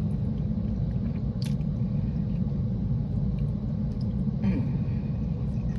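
Steady low rumble inside a car cabin, with a few faint clicks and chewing sounds from someone eating.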